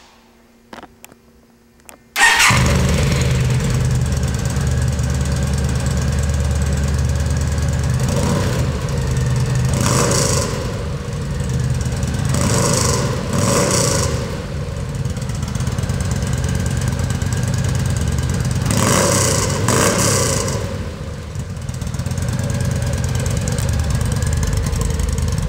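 2009 Yamaha V Star 950's V-twin engine starting about two seconds in and idling, revved briefly several times, heard through an exhaust with a freshly drilled 1.5-inch hole meant to make it louder.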